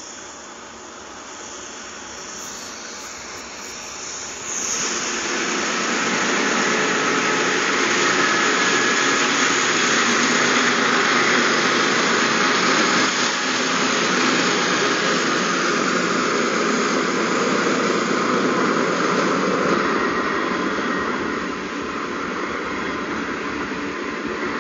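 Freight train's orange BNSF diesel-electric locomotives approaching and passing close by: the engine noise grows steadily, jumps sharply louder about four and a half seconds in as the locomotives come alongside, and stays loud and steady. Near the end it eases off to the lower, steady rolling noise of the freight cars going past.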